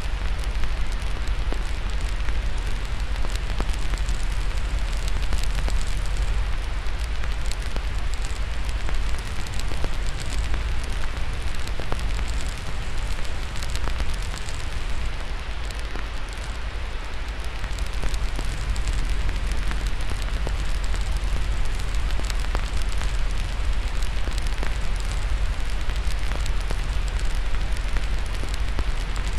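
Crackling fire mixed with white noise: a dense scatter of small pops and snaps over a steady hiss, with a strong low rumble underneath.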